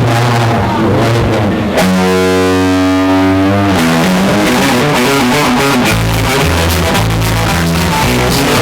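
Live band playing rock with electric guitar, a chord held for about two seconds, then a steady walking bass line. The recording is loud and distorted.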